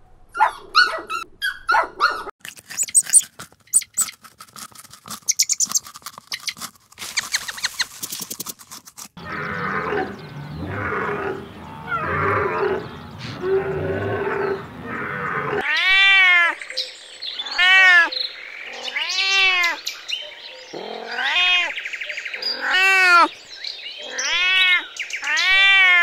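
A small dog yapping in quick bursts for the first two seconds, then a run of rapid clicks and taps, then several seconds of rough animal calls over a noisy background. From a little past halfway, a white Persian cat meows over and over, about once a second, each meow rising and then falling in pitch.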